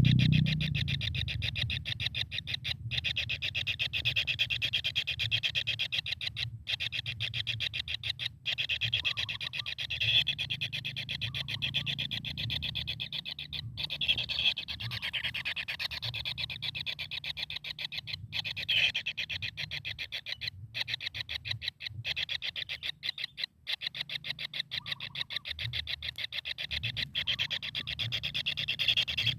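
Kingfisher calling in a fast, unbroken rattling chatter of short, high notes, with a low hum underneath.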